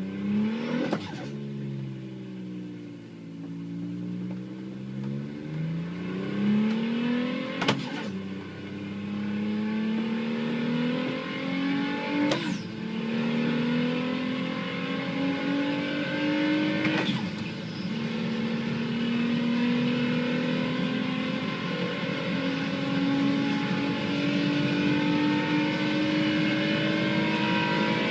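Volkswagen Golf Mk4 engine pulling the car up through the gears. The engine note climbs steadily, drops briefly at each of four gear changes, then rises slowly and at length in the last gear.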